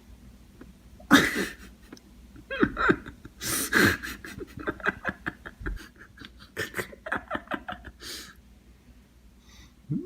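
Wordless human voice: short bursts of laughter and heavy, panting breaths.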